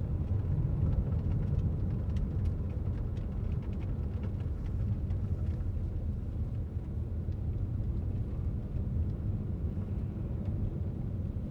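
Steady low rumble of a car driving along a road, engine and tyre noise, with a few faint clicks in the first half.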